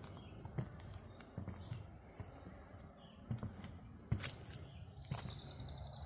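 Footsteps of a person walking on a trail, a series of irregular soft thuds. A high, rising pulsed trill starts near the end.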